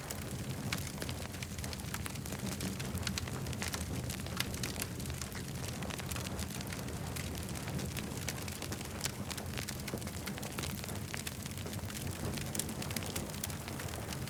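Campfire burning, with many quick crackles and snaps scattered over a steady low rumble.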